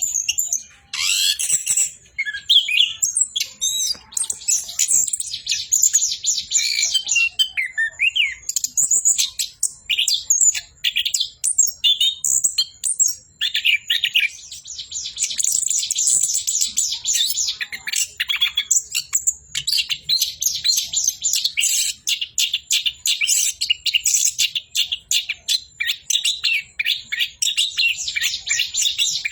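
Orange-headed thrush (anis kembang) singing a long, nearly unbroken run of fast, varied high phrases, with only brief pauses about two seconds in and about halfway through.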